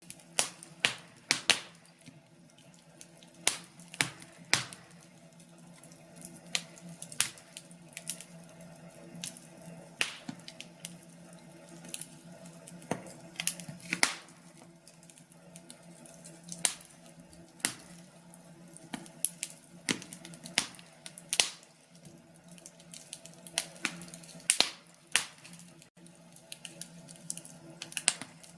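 Wood fire burning in a fireplace, crackling with sharp, irregular pops.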